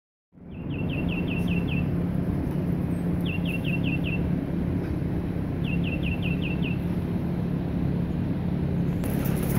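A songbird sings three short phrases, each a quick run of five or six falling notes. A steady low hum and rumble runs under them.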